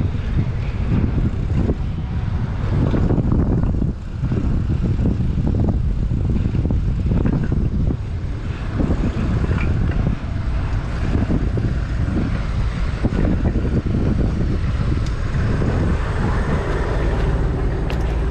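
Wind buffeting the microphone of a moving bicycle: a loud low rumble that surges and dips irregularly.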